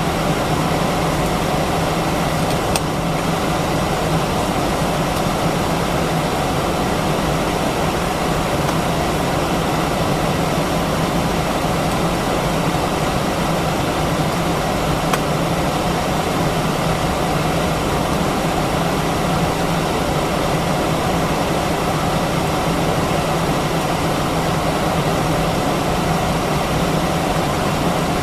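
Airbus A319-132's IAE V2500 turbofan engines running steadily, heard inside the passenger cabin as an even low hum and rushing air noise with no change in thrust.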